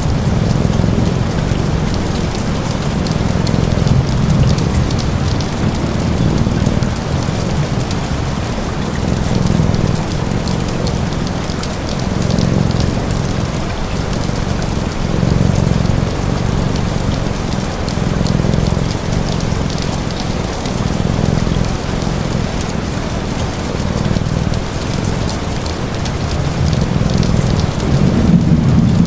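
Steady rain, with a low rumble underneath that swells and fades every few seconds.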